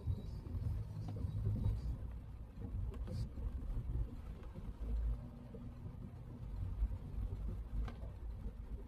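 Car driving along, a Citroën C3: a steady low rumble of engine and road, with a couple of faint ticks.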